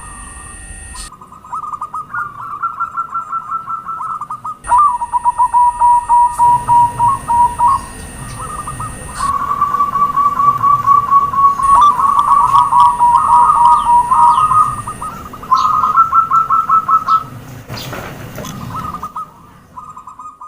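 Zebra doves (perkutut) cooing in fast runs of short, staccato notes around one pitch. Several runs overlap, and stretches start and stop abruptly. A short rustling noise comes near the end.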